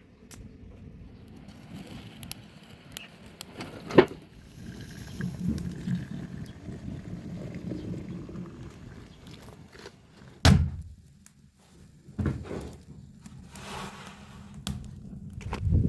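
Scattered knocks and thuds: a sharp one about four seconds in, another just after ten seconds, and more near the end, with low rumbling between them.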